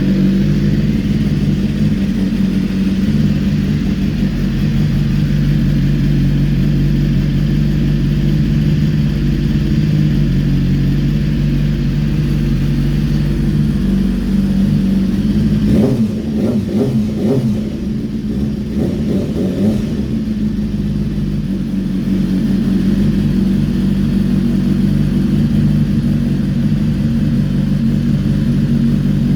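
BMW S1000RR inline-four engine idling through an Arrow X-Kone exhaust while still cold. The pitch wavers unevenly for a few seconds about halfway through, then settles back to a steady idle.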